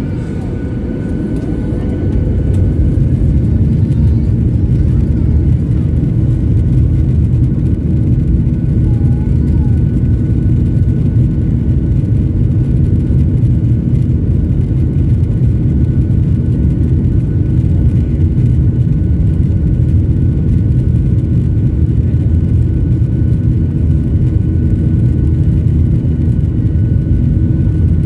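Steady low rumble of a jet airliner's engines and airflow heard from inside the passenger cabin, with a faint steady whine above it; it grows a little louder about two seconds in, then holds level.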